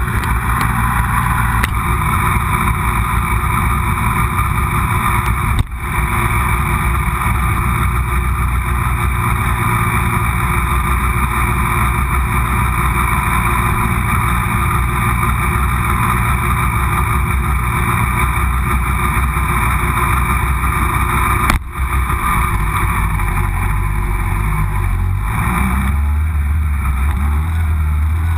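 Yamaha R6 race bike's inline-four engine running at low revs, heard from the bike-mounted camera. The note stays steady, dips briefly twice, and steps up in pitch about 25 seconds in as the bike pulls away.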